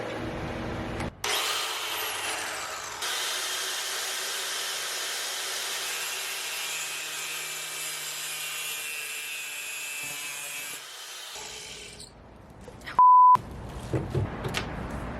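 An over-long metal screw being cut down to length, a steady cutting and grinding noise that runs for about ten seconds, broken by edit cuts. Near the end there is a short, loud, steady beep, then a few sharp clicks.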